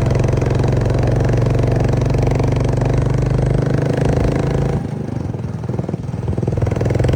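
Motorcycle engine running steadily. It drops in level about five seconds in, as if the throttle is eased, and picks back up shortly before the end.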